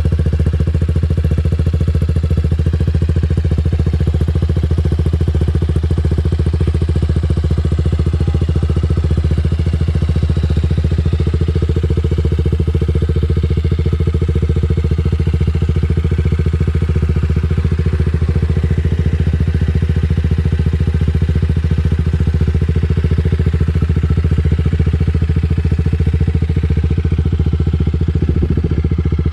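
TVS Apache RR310's single-cylinder engine running steadily through a Yoshimura R77 free-flow full-system exhaust, with no revving: a deep, even exhaust note.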